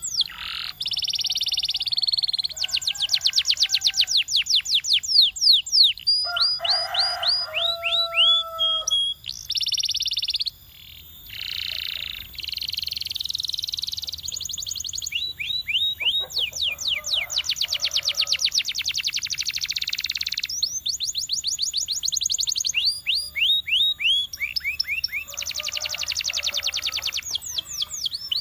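Domestic canary singing a continuous song of trills: fast runs of the same short note repeated, switching to a new note every second or two, mixed with buzzing, rolling phrases.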